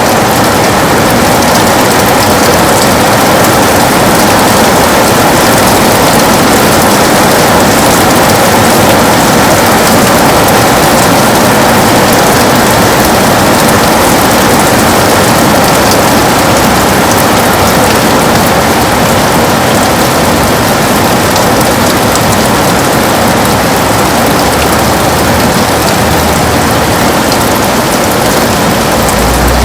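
Heavy rain falling steadily on a window: a loud, dense, even hiss with no letup.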